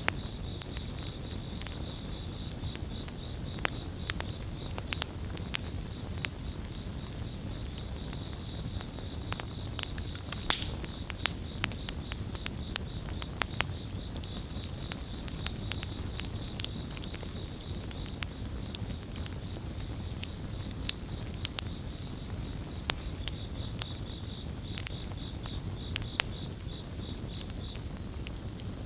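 Campfire crackling, with irregular sharp pops over a steady low rumble. Crickets chirp in rapid high pulses at the start and again near the end.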